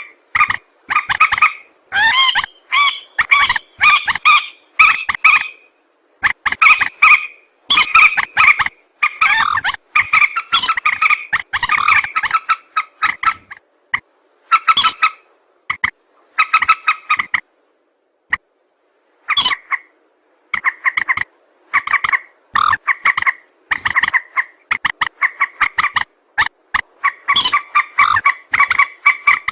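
Recorded calls of a mandar bird (a rail), played as a trapping lure: rapid runs of short, harsh notes, several a second, in bursts broken by short pauses, with a longer pause a little past the middle.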